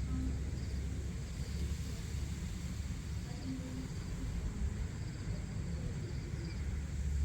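Outdoor dawn ambience: a steady low rumble, with insects chirping faintly in short trills every second or so.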